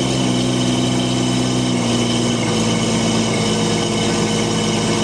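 STL1000's engine running under way with a misfire, its revs easing down about two seconds in.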